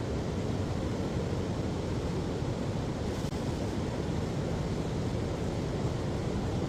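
Steady rushing noise, even throughout, with most of its weight in the low range and no separate events.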